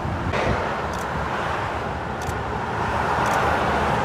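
Steady motorway traffic passing below: continuous tyre and engine noise of vehicles on the carriageway, growing louder toward the end as another vehicle approaches.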